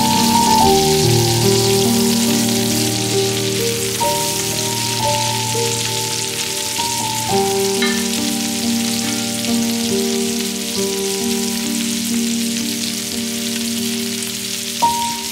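Pork tenderloin medallions frying in butter in a pan, a steady sizzle, under soft background music of long held notes. A light knock sounds near the end.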